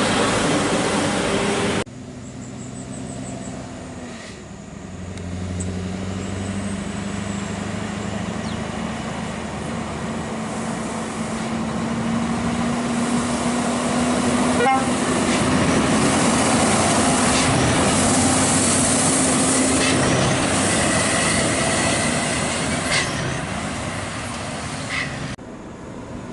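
Scania R580 V8 heavy truck engine running under load, with tyre and road noise. The engine note climbs slowly as the truck pulls, and the road noise swells towards the middle. The sound changes abruptly twice, about two seconds in and near the end.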